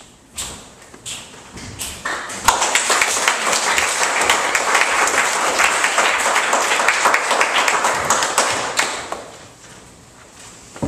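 Audience applauding: a few scattered claps, then full applause about two seconds in, dying away near the end.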